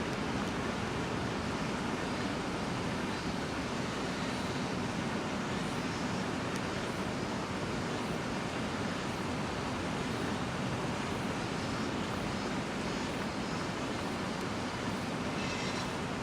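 Steady rushing noise with no distinct events, like wind or distant running water.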